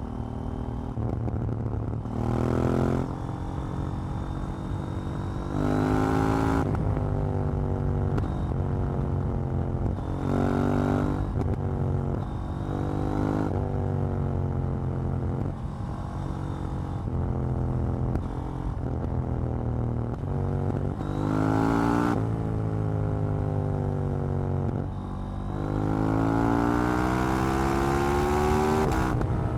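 KTM 790 Duke's parallel-twin engine accelerating hard in several short bursts, its pitch climbing quickly and then dropping as the throttle closes, with a longer pull near the end.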